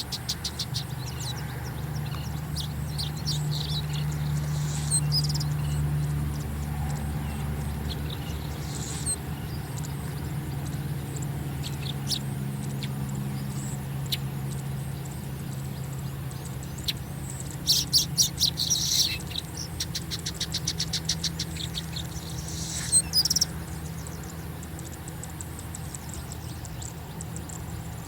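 Oriental pratincoles calling: scattered short, high chirps, breaking into rapid chattering runs about two-thirds of the way through, over a steady low hum.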